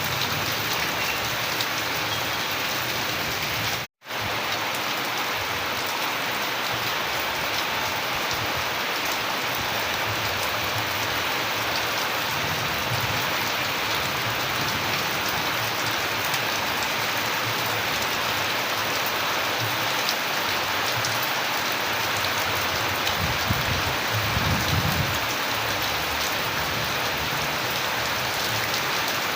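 Steady, heavy rain falling, an even hiss of countless drops on surfaces. The sound cuts out completely for a split second about four seconds in, and a low rumble rises under the rain about three quarters of the way through.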